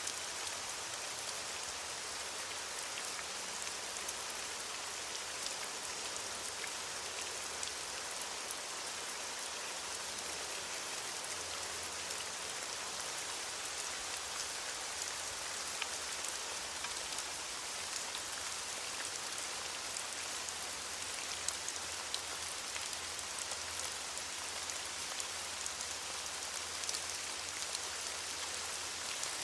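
Steady rain falling on leaves: an even hiss with many small drop ticks.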